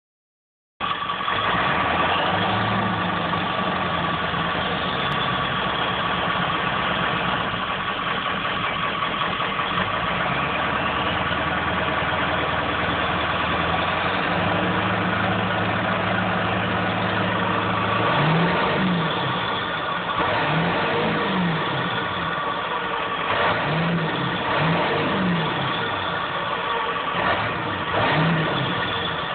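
1995 Ford F250's 7.3 Powerstroke V8 turbo diesel running steadily with a steady high turbo whistle. From about two-thirds of the way in, the throttle is blipped several times in quick revs that rise and fall.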